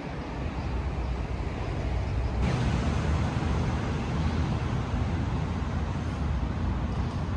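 City street traffic: a steady rumble of cars and other vehicles passing, growing louder and brighter about two and a half seconds in.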